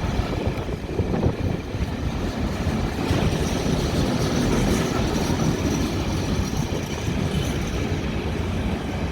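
Freight train rolling past, its wagons rumbling steadily over the rails.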